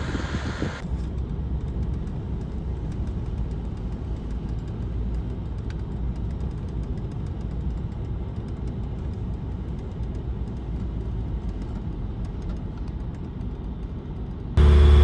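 A vehicle engine running steadily with a low rumble. Near the end a much louder sound with steady tones cuts in abruptly.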